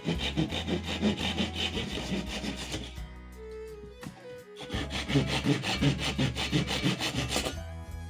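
A hand tool worked rapidly back and forth on wood in two bouts of strokes, stopping for about a second and a half about three seconds in, over quiet background music.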